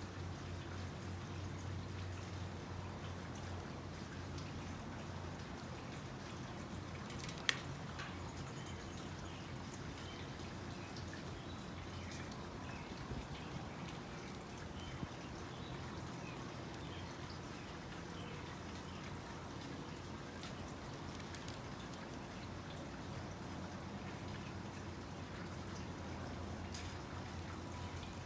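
Basket weaving: faint, irregular crackles and ticks of strands being worked through the basket, with one sharper click about a third of the way in, over a steady low hum.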